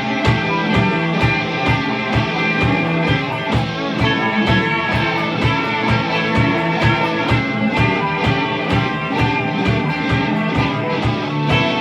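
Instrumental passage of a rock song: guitars over a steady drum beat, with no singing.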